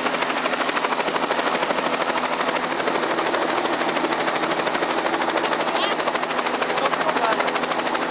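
Helicopter rotor and engine running steadily, a continuous loud noise with a fast even beat of the rotor blades.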